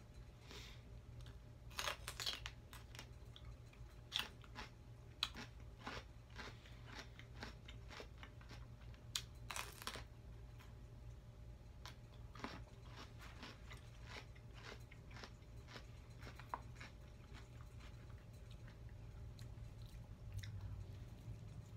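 Close-up crunching and chewing of a raw celery stick, sharp crisp bites clustered in the first half, then fewer, softer chews.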